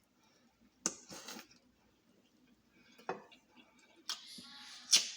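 Close-up eating sounds of fried chicken: sharp mouth clicks and crunches about two seconds apart, then a longer noisy stretch of chewing near the end.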